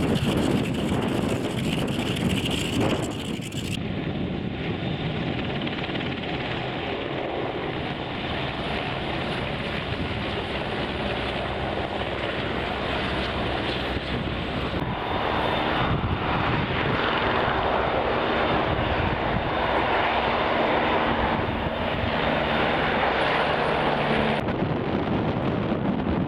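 Fixed-wing aircraft engine noise: a steady, continuous drone, with distinct engine tones standing out from about halfway through.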